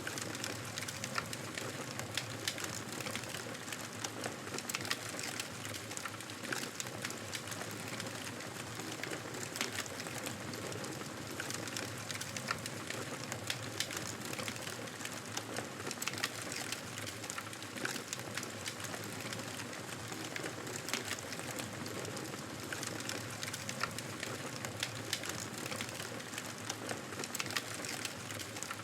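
Campfire burning with a steady hiss and frequent irregular crackles and pops of burning wood.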